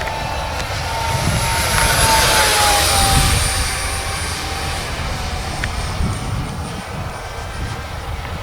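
Electric ducted fan of a radio-controlled Boeing 727 model jet whining as the plane flies past. The whine is loudest two to three seconds in and drops in pitch as it passes, over a low wind rumble.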